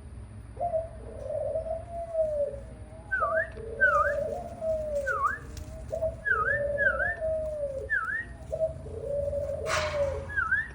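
Birds calling: a low, dove-like cooing phrase repeated four times, about every two and a half seconds, with short high chirps in between from about three seconds in. A brief rustle near the end.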